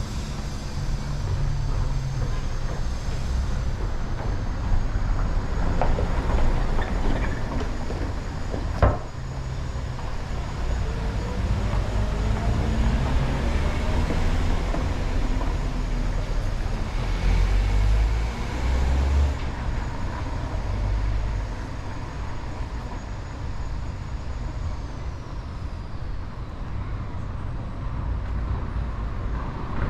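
Town street sound of motor vehicle engines running and passing, a steady low rumble with an engine pitch rising for a few seconds. One sharp knock about nine seconds in.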